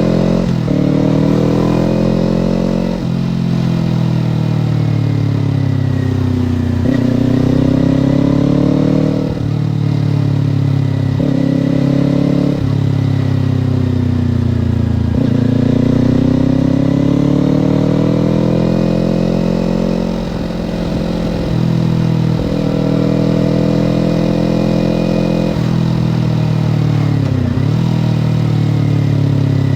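Kawasaki Ninja 250/400 parallel-twin engine under way, its revs repeatedly climbing and falling with sudden jumps in pitch as gears are changed, over steady riding noise.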